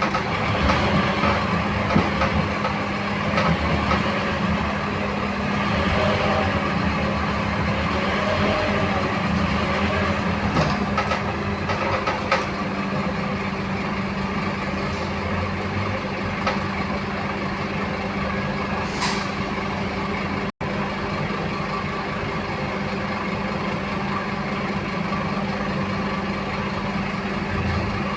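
Scania K230UB city bus heard from on board, its diesel engine running steadily with light rattles from the cabin. There is a brief hiss about two-thirds of the way in.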